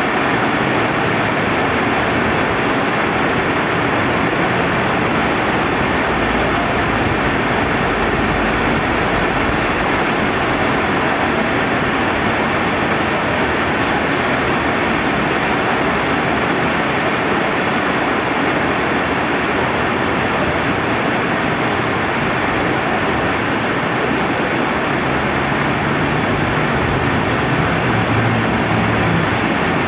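Steady rain falling by a river: a constant, unchanging wash of rain and running water.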